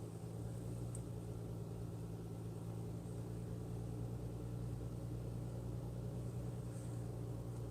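Car driving slowly, heard from inside the cabin: a steady low hum of engine and tyre noise.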